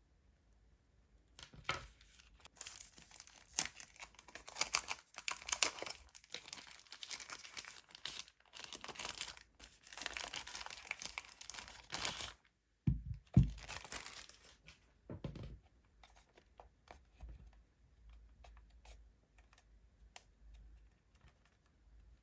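Plastic packaging being crinkled and torn open, a dense crackling for about eleven seconds, then a few dull thumps and scattered light clicks as parts are handled.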